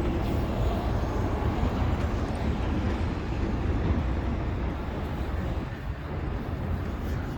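Steady low rumble of city street noise from passing traffic and engines, easing slightly near the end.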